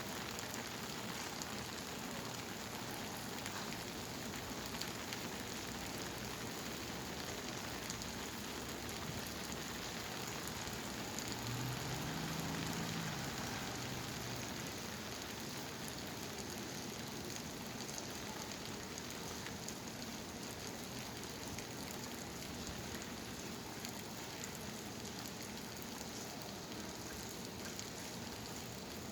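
Steady monsoon rain falling on surfaces, an even hiss throughout. A low hum swells briefly a little before the middle.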